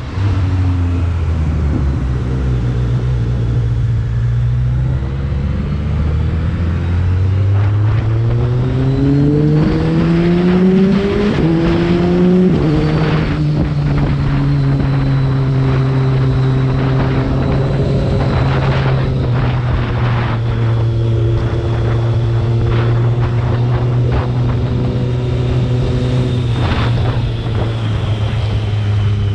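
BMW K1300R motorcycle's inline four-cylinder engine heard on board. It runs steadily, then accelerates with a rising pitch from about a quarter of the way in, drops in pitch at an upshift near the middle, and settles into a steady cruise.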